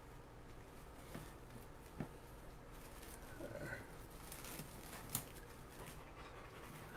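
Faint rustling and a few soft clicks from a wreath's ribbon and bow being fluffed by hand.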